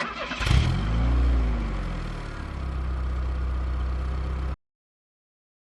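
A car engine being started: a brief crank, then it catches, flares up in revs and falls back to a steady idle. The sound cuts off abruptly about four and a half seconds in.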